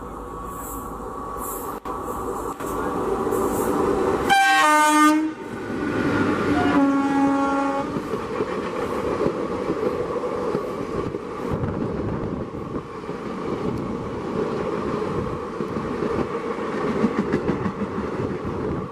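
WAP-4 electric locomotive approaching at speed and sounding its horn in two blasts as it passes, the second lower in pitch. ICF passenger coaches then run past with the steady clickety-clack of wheels over the rail joints.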